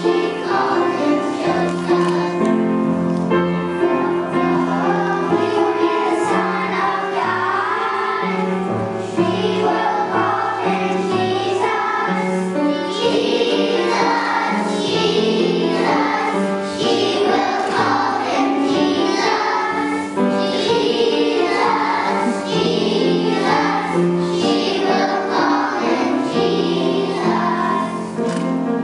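Group of children singing a song together over a musical accompaniment.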